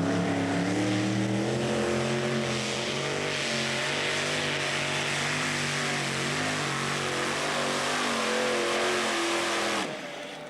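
Pulling tractor's engine running hard under load, its pitch wavering up and down, with a harsh rushing noise building from about three seconds in. It cuts off suddenly near the end.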